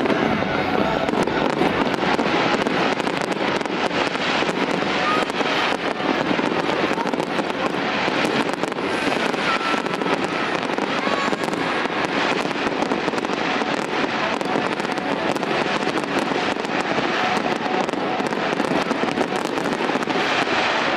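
Fireworks display going off in a continuous, dense crackle of many pops and bangs.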